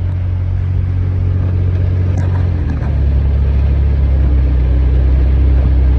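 A car driving, with a steady low engine and road drone. About three seconds in, the drone drops to a lower pitch and grows slightly louder.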